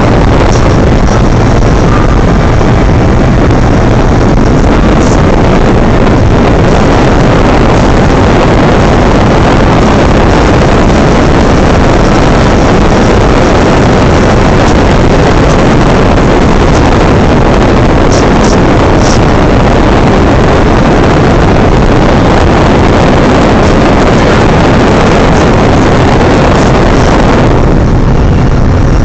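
Fiat Stilo 1.9 JTD's four-cylinder turbodiesel engine running hard at high speed, buried in loud, steady wind and road noise. The hiss thins out near the end.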